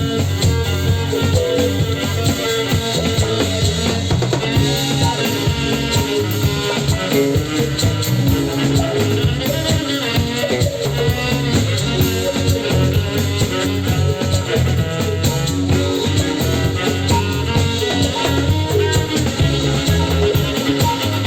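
Live band music: an organic trance jam with drum kit, percussion, bass, guitar and keys playing a steady driving beat.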